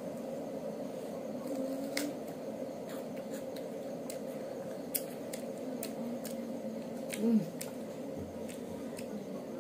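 Scattered sharp crunches and clicks of biting and chewing crisp raw green fruit, over a steady low hum.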